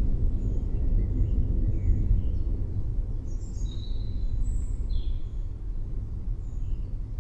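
Low rolling thunder rumbling and slowly dying away, with birds chirping faintly, the chirps strongest about three to five seconds in.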